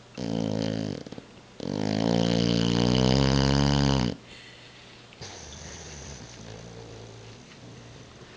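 Boxer dog snoring in its sleep: a short snore with a brief flutter, then one long, loud snore of about two and a half seconds, followed by a softer breath.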